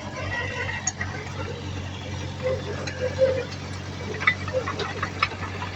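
Diesel engine of heavy earthmoving machinery running steadily, with short squeaks midway and several sharp metallic clanks near the end.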